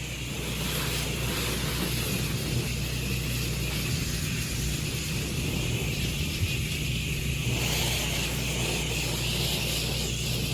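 Pressure washer running steadily, an engine-like hum under the hiss of water spraying through the nozzle, the hiss growing a little stronger near the end.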